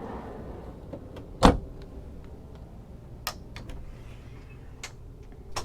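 A steady low hum, with one sharp knock about a second and a half in and a few lighter clicks later.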